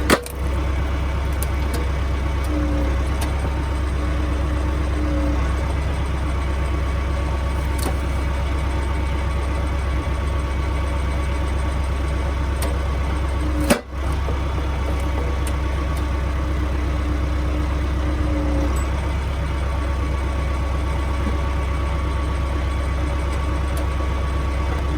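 Renault 7514S tractor's diesel engine running steadily while powering a hydraulic log splitter, with a humming tone that comes in for a few seconds at a time, twice, as the hydraulics work. A brief sharp click about halfway through.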